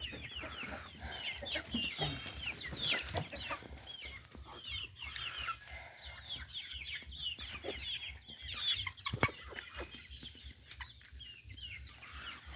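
A mixed flock of hens and young chickens clucking and cheeping: many short, high, overlapping calls, most of them falling in pitch. There is a single sharp knock about nine seconds in.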